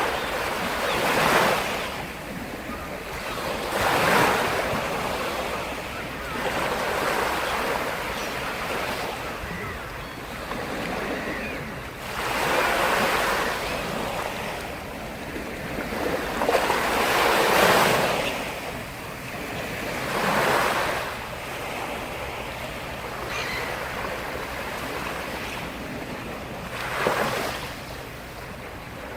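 Sea surf: waves breaking and washing up the shore, the rush swelling and fading every few seconds.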